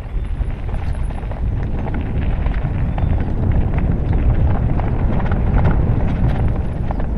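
Horse hooves clopping at a walk, over a steady low rumble.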